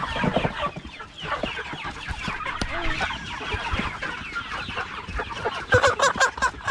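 A flock of Cornish Cross meat chickens clucking, with a quick run of louder repeated calls near the end.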